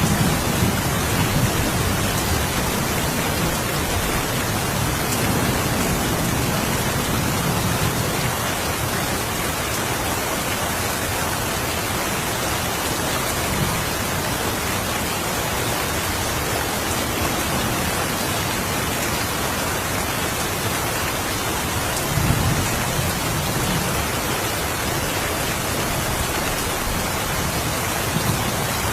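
Steady rain falling as an even hiss, with low thunder rumbles, one fading out near the start and another a little past two thirds of the way through.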